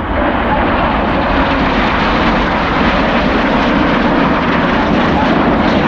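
BAE Hawk T1 jets flying overhead, a loud, steady rush of jet engine noise with no break.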